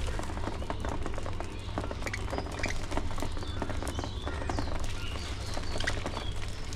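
Colony of budgerigars chirping and chattering, with many short rising and falling calls and scattered clicks over a steady low rumble.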